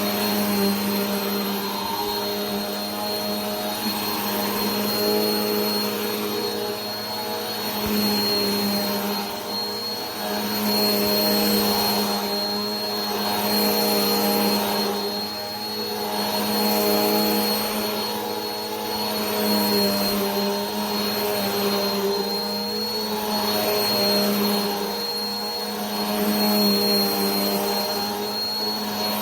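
Vacuum cleaner running continuously: a steady motor hum with a thin high whine over a rush of air. The air noise swells and eases every two seconds or so.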